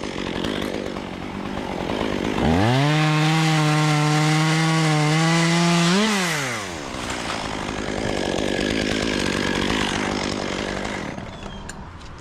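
Two-stroke chainsaw revved to full throttle and cutting magnolia wood for about three and a half seconds. Its pitch rises briefly as the cut finishes, then falls as the throttle is released. A few seconds of rushing, rustling noise follow.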